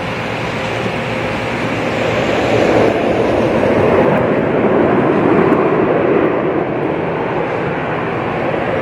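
Jet airliner engines, a loud steady rush that swells a few seconds in and eases a little near the end.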